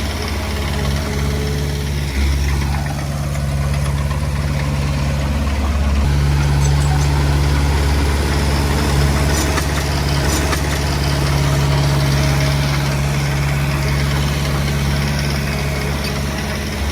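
Heavy diesel engine of earthmoving equipment running steadily with a low hum, getting louder about two seconds in and again around six seconds.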